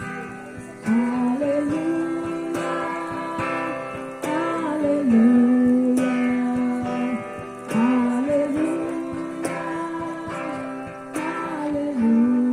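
Live worship music: strummed acoustic guitar under a slow melody of long held notes that slide between pitches.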